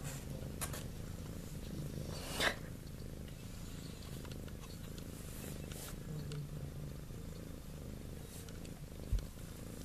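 Cat purring steadily, a low continuous rumble, with a few brief sharp clicks of movement (the loudest about two and a half seconds in) and a short low thump near the end.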